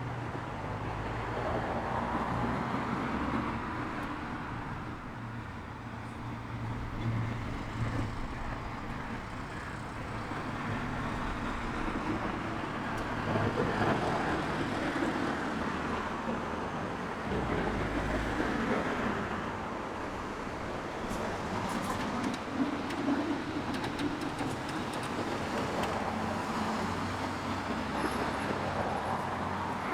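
Road traffic going past, a steady rush of tyres and engines that swells and fades as several vehicles pass one after another.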